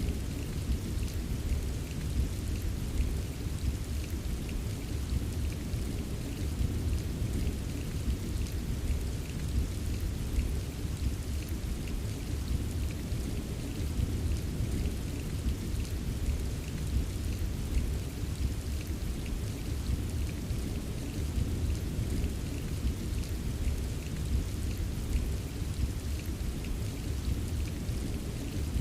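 Rain ambience: steady, even rainfall with fine drop ticks over a constant deep rumble, with no distinct thunderclap.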